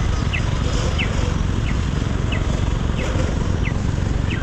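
Motorcycle riding with a steady low rumble of engine and wind noise, over which a short, high, falling chirp repeats evenly about every two-thirds of a second.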